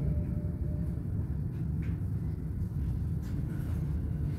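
Steady low rumble inside a Stadler RABe 511 RegioDosto double-deck electric train rolling slowly along a station platform. A faint short whine sounds within the first second.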